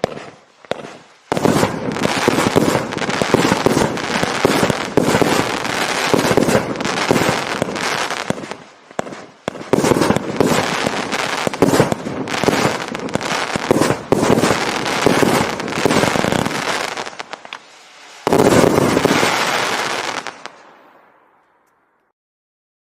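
36-shot, 500-gram consumer fireworks cake firing: a few single pops, then rapid launches and aerial breaks with crackle, near-continuous for about fifteen seconds. After a short lull comes a last loud volley that crackles and fades away.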